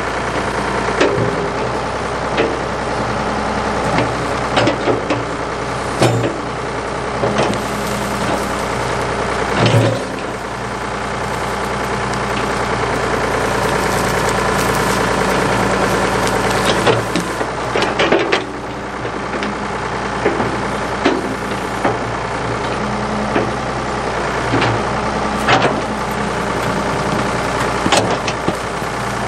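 Ford 555 backhoe's diesel engine running steadily, with scattered knocks and clanks throughout.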